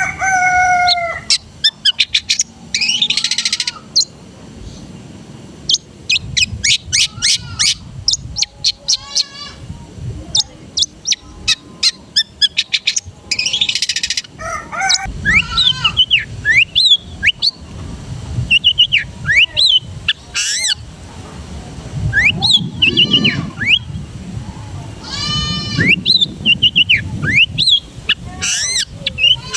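Long-tailed shrike (cendet) singing a varied, fast song of sharp chirps, rapid chattering runs, whistled glides and a couple of harsh rasping bursts. It is a loaded 'isian' song, in which the cendet weaves in phrases copied from other birds.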